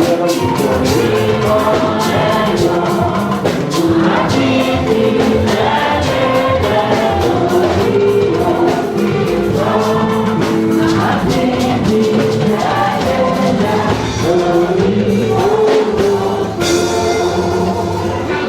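A choir singing a gospel song with instrumental backing and a steady beat of percussion.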